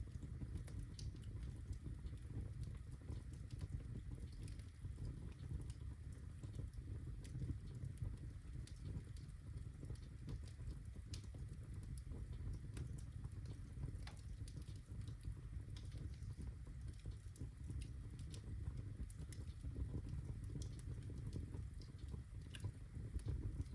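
Birch logs burning in a fireplace: a steady low rumble of flame with scattered sharp crackles and pops.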